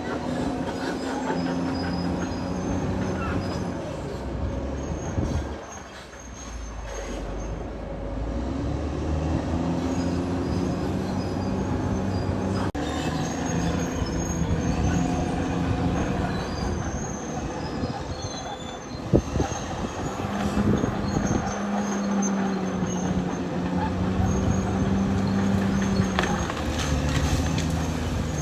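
Caterpillar D6R XL crawler bulldozer working, its diesel engine rising and falling with load and its steel tracks squealing and clanking. The engine drops off briefly about six seconds in, and there is a sharp knock a little past the middle.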